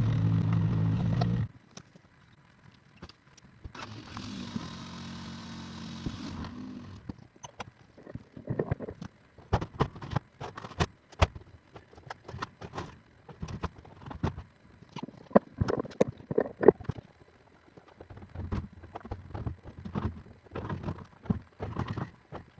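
Excavator diesel engine running, cut off abruptly about a second and a half in. A quieter motor hums for about three seconds, then irregular knocks and clatter follow through the rest.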